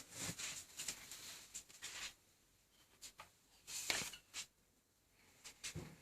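Faint handling noise: scattered rustles and light knocks in three short clusters, at the start, around the middle and near the end.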